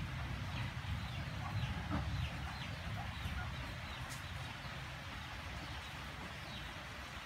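Several short falling bird calls, mostly in the first few seconds and once more near the end, over a low rumble that fades away.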